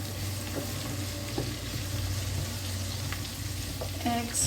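Chopped onion, garlic, carrots and green peppers sizzling in olive oil in a cooking pot while being stirred, with a few light knocks of the utensil against the pot and a low steady hum underneath.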